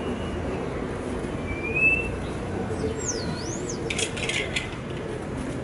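Small birds chirping and whistling: a few short whistled notes, then a falling-and-rising sweep, then a quick cluster of chirps about four seconds in, over a steady low background hum.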